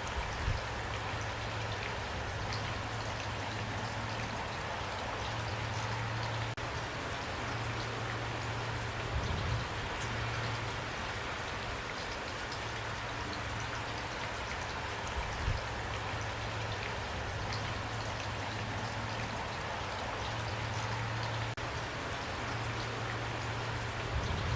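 Steady rain falling, an even hiss of drops on surfaces. A low hum comes and goes beneath it, with a few soft low thumps spaced several seconds apart.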